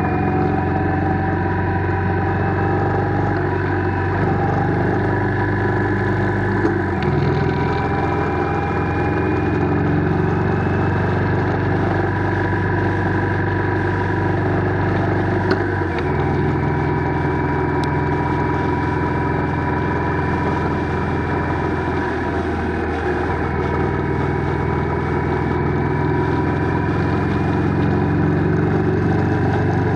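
Motorcycle engine running steadily while riding, its note shifting abruptly three times as the revs change.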